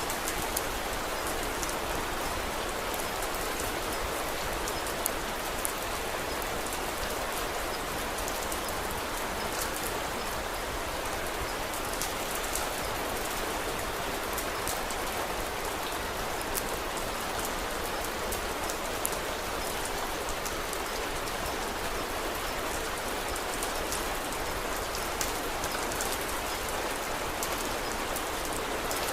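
Steady rain falling on a surface, an even hiss with scattered faint sharp ticks of individual drops.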